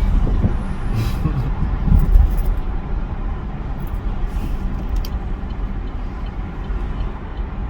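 Car interior noise while driving: a steady low rumble of engine and road, with a thump about two seconds in.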